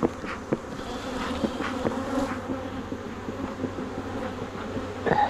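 Honeybees buzzing in a dense, steady hum around an opened hive, with a few light clicks in the first two seconds. The colony is agitated and defensive: the bees are stinging the beekeepers' gloves.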